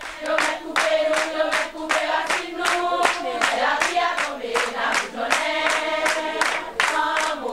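A group of voices singing together, accompanied by steady rhythmic hand clapping at about four claps a second.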